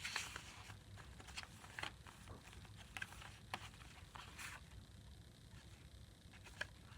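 Faint, scattered rustles and light taps of paper being handled: journal pages and a large coffee-dyed sheet of journaling paper moved by hand.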